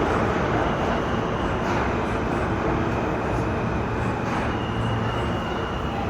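R46 subway train running through a tunnel: a steady rumble of wheels on rails and traction motors, heard inside the car. A faint high whine comes in about four and a half seconds in.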